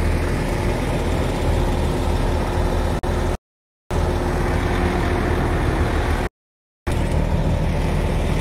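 Heavy construction-site engine running steadily with a low hum. The sound drops out completely twice, for about half a second each time.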